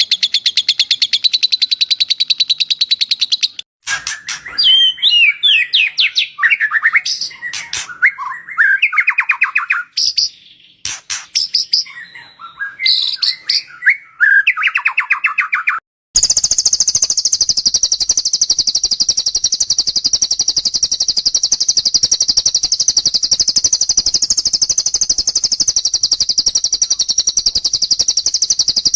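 Recorded songbird song from a bird-song tutoring mix of cililin and lovebird calls: a fast, even high trill, then varied whistled phrases sweeping up and down, then from about halfway a long, unbroken, very high rapid trill.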